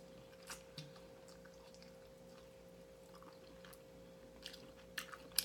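Faint close-miked sounds of someone eating hot chicken wings: scattered soft smacks and clicks of biting and chewing meat off the bone, a few near the start and a quick cluster near the end, the sharpest just before it stops. A faint steady hum sits underneath.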